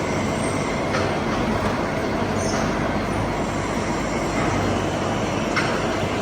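Heavy machine-shop machinery running steadily with a low hum, and two light metallic knocks, one about a second in and one near the end.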